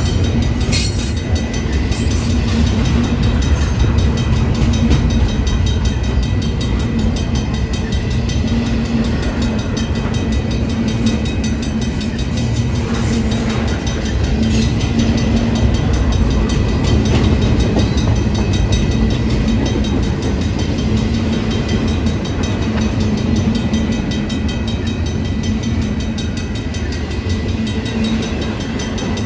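Union Pacific train's cars rolling past close by, a loud, steady rumble with wheel clatter on the rails.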